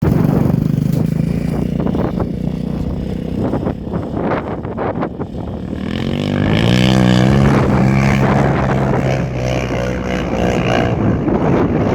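Yamaha Raptor 700R quad's 686 cc single-cylinder four-stroke engine running loud through a full Empire Industries single exhaust. About six seconds in it revs up and holds high revs, as on a sand dune climb.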